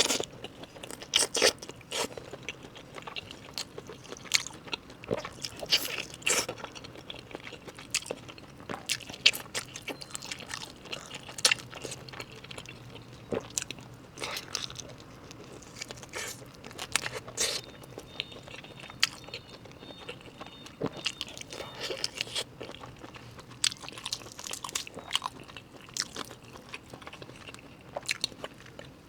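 Close-miked biting and chewing of a large Orleans-flavoured chicken drumstick, a run of irregular mouth clicks and smacks.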